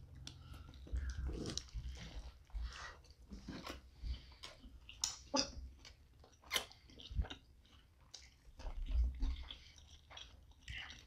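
Close-miked chewing of a big stacked burger: wet mouth smacks and soft crunches at an irregular pace, with a few louder smacks.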